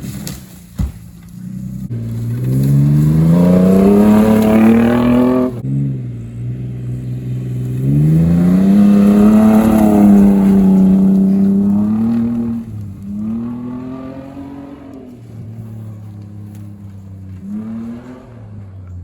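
A 1995 Mercedes-Benz E320's straight-six engine accelerating, its pitch rising twice and then easing off, with a sharp click about a second in.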